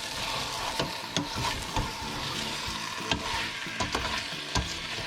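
Food sizzling as it fries in a pan and is stirred with a metal utensil, with several sharp knocks of the utensil against the pan.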